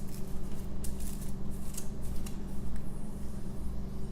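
Light clicks and rustles of a small fragrance oil sample bottle being handled and opened, scattered mostly over the first two seconds, over a steady low hum.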